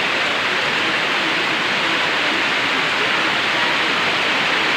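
Tropical storm rain falling steadily, an even hiss of water.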